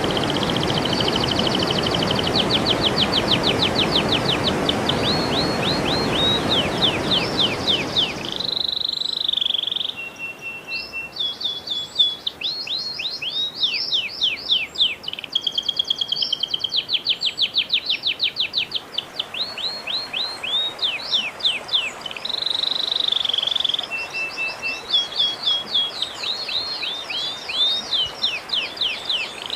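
Songbird song from a recording: rapid trains of repeated downward-sweeping chirps alternating with short held whistles. A background hiss under the first eight seconds or so cuts off suddenly.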